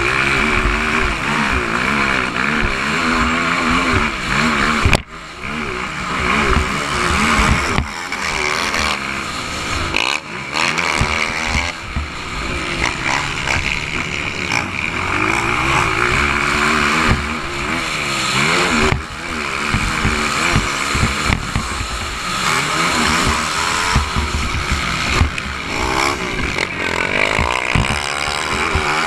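Motocross dirt-bike engines at full race, their pitch climbing and falling again and again as the throttle is opened and shut.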